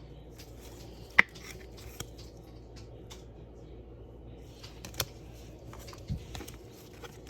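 Trading cards and packs being handled on a table: faint sliding and rustling, with sharp clicks about a second in and again around five seconds, and a soft thump a little after six seconds.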